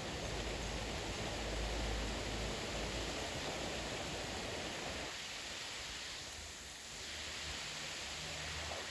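Gusty wind ahead of a storm front, a steady rushing noise. A low rumble comes from a gust about a second or two in, and the wind eases briefly near the end.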